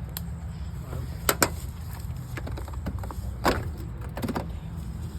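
A handful of sharp knocks and clicks, about six spread over five seconds, over a steady low rumble.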